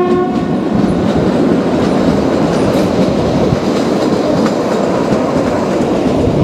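Kalka–Shimla narrow-gauge toy train running steadily, heard from on board: a continuous rumble and rattle of the coach on the rails, with a few faint clicks.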